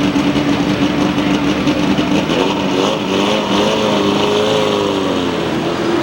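Race truck engines running, with one engine's pitch rising and then falling through the middle seconds.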